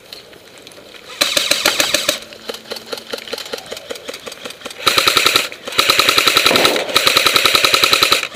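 Airsoft electric guns firing full-auto at about a dozen or more shots a second: one loud burst about a second in, lighter rapid clicking after it, then three longer loud bursts from about five seconds on.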